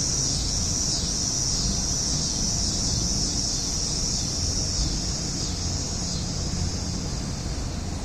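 Cicadas droning in a steady high-pitched band that eases slightly near the end, over a low steady rumble.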